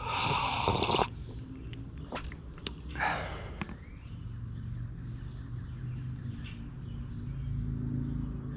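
Outdoor morning ambience: faint birds over a steady low rumble. A loud, brief rushing noise fills the first second, and a shorter one comes about three seconds in, just after a sharp click.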